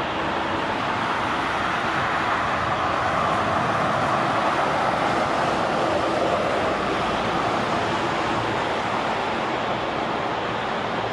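A jet airliner passing, its engine noise a steady rush that swells to its loudest about five seconds in and then eases off.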